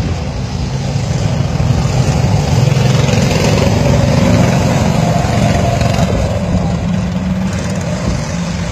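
Small single-cylinder-class engines of junior mini race trucks, about 9 horsepower each, running as the trucks roll past on the oval. They grow louder toward the middle and then fade.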